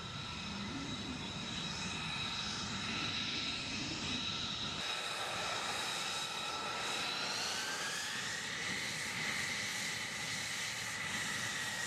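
Jet aircraft engine whining steadily over a low rumble. Nearly five seconds in the rumble drops away abruptly, and a couple of seconds later the whine rises in pitch and holds there.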